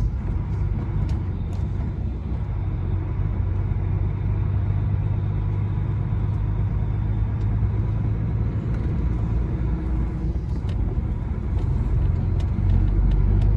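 Truck's diesel engine droning steadily with road and tyre noise while driving, getting a little louder near the end.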